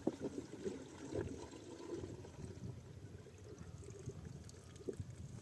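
Irrigation water pouring and splashing from a diesel pump's delivery, an uneven, continuous gush.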